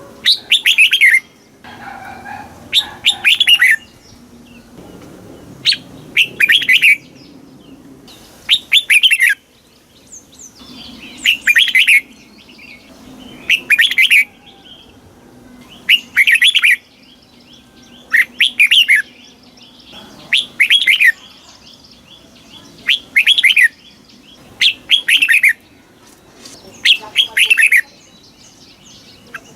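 Red-whiskered bulbul singing: short, bubbly warbled phrases repeated about every two seconds, each loud and brief with quiet gaps between.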